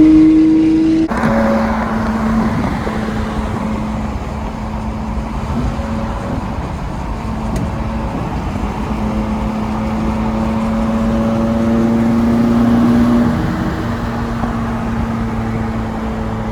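A car engine running steadily while driving, with road noise under it. A higher, rising engine note cuts off abruptly about a second in, and the engine note swells a little near the end.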